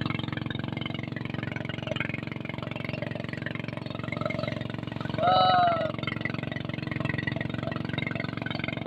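A boat engine running steadily with an even low drone. A single loud cry with a bending pitch comes about five seconds in.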